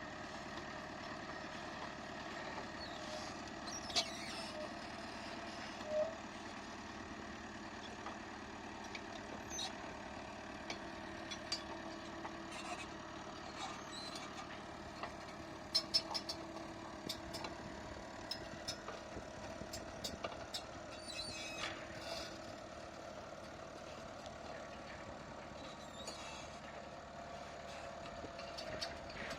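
Diesel engine of a CAT D3K LGP crawler bulldozer running steadily, with scattered sharp metallic knocks and clicks, the loudest about 4, 6 and 16 seconds in.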